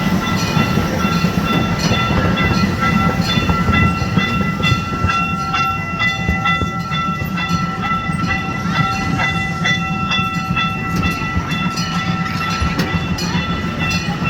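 An amusement-park ride train running along its track, with a steady low rumble and many short clicks of the wheels over the rails. A few steady high-pitched tones ring over it.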